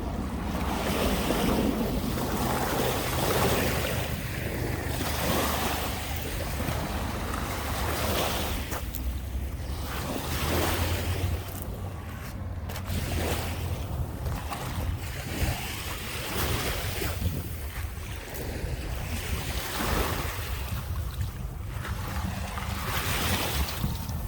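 Waves washing onto the Lake Michigan shore, swelling and easing in repeated surges, with wind rumbling on the microphone.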